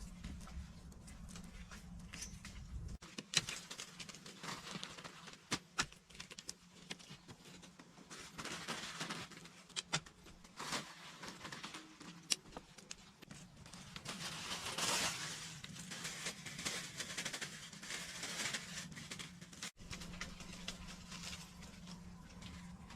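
Rustling with scattered light clicks and knocks, the sound of hands working dry material.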